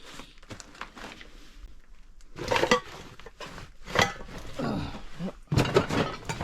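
Footsteps over piles of old newspapers and household debris on a floor, a series of irregular rustling, crunching steps with the odd clink of junk underfoot.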